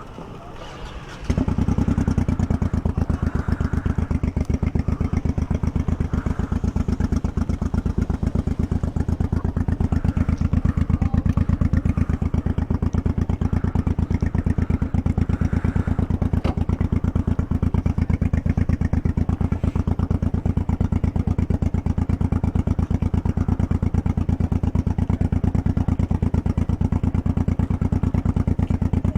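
Motorcycle engine starting about a second in, then idling steadily with an even, quick pulse.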